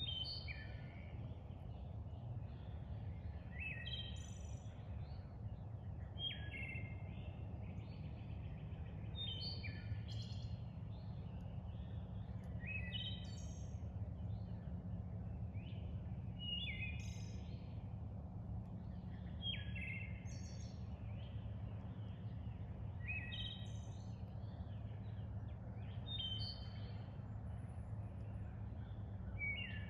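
A songbird singing the same short phrase over and over, about once every three seconds, over a steady low rumble.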